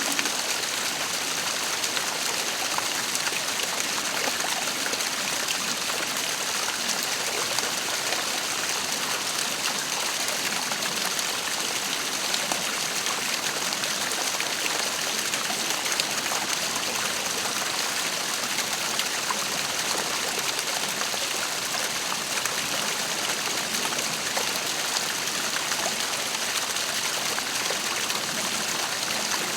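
Waterfall splashing and rushing steadily, an even hiss of falling water that does not change.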